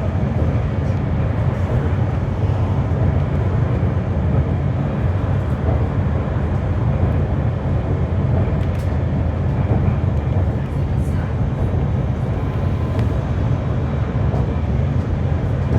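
Interior running noise of a GT low-floor tram underway: a steady low rumble of the car rolling along the rails.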